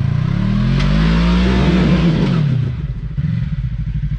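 Side-by-side UTV engine revving: the pitch climbs for about two seconds, then falls back to a pulsing idle about three seconds in.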